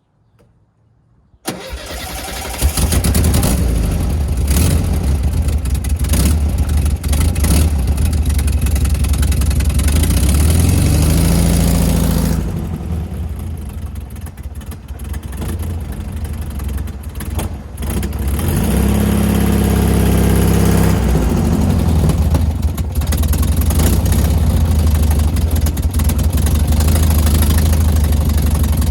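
VW Super Beetle's air-cooled flat-four engine starting about a second and a half in, then running loud as the car is driven off, its pitch climbing twice as it accelerates.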